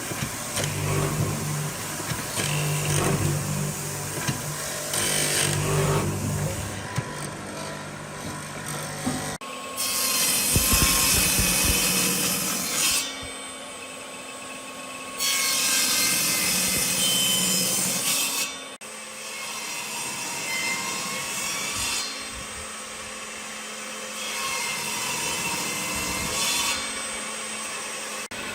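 Tools working on wood, a rasping, sawing kind of noise. It stops and starts abruptly several times.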